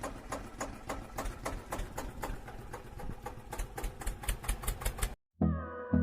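A small toy motor running with a rapid, even clicking that speeds up a little toward the end, then cuts off sharply about five seconds in.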